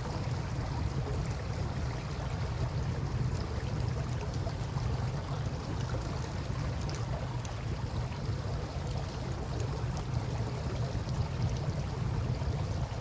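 Campfire crackling with scattered small sharp pops over the steady rush of river water flowing past, with a constant low rumble underneath.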